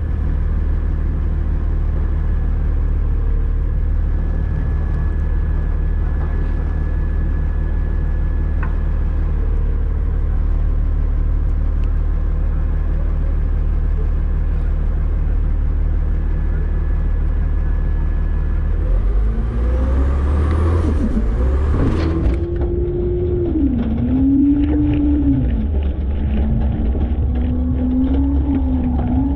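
Front-load garbage truck's diesel engine running steadily. About 19 seconds in it revs up, and a loud whine sets in that wavers up and down in pitch: the truck's hydraulics working under load.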